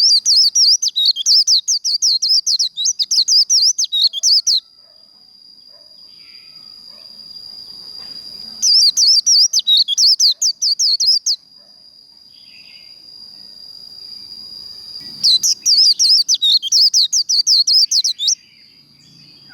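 White-eye (vành khuyên) singing its fast, high, twittering 'líu' song in three bouts of about three to four seconds each, with short pauses between. A steady thin high tone runs underneath.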